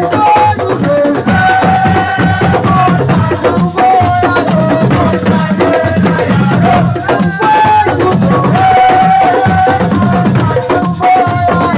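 Assiko band music: dense, fast drumming with shakers, under a melody of held notes.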